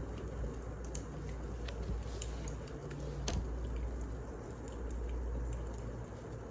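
Wood fire burning in a fireplace: a steady low rumble with scattered crackles and pops, one sharper pop about three seconds in.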